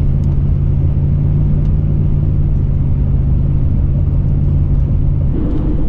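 Ford F-150 pickup on the move, heard from inside the cab: a steady low drone of engine and road noise. About five seconds in the drone's pitch changes.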